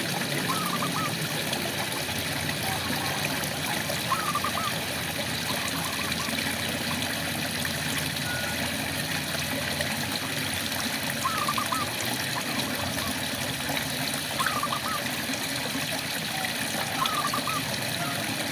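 Steady rain falling, with a frog giving about five short, warbling calls a few seconds apart.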